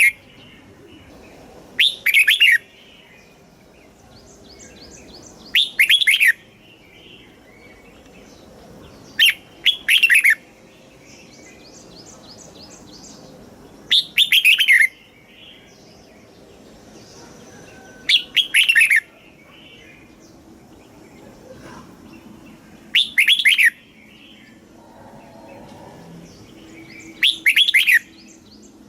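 Red-whiskered bulbul singing short, loud whistled phrases, one about every four seconds, seven in all, with faint chirping between them.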